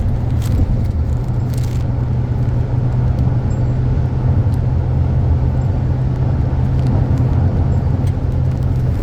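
Mahindra XUV700 SUV on the move: a steady low rumble of engine and road noise, holding one pitch without rising or falling.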